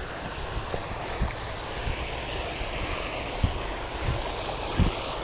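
Steady rushing noise of wind and flowing creek water, with wind buffeting the microphone in short low thumps a few times.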